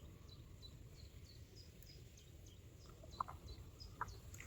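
Faint outdoor ambience: a small bird chirping in short high notes repeated about three times a second, over a low steady rumble. Two louder, lower short notes come about three and four seconds in.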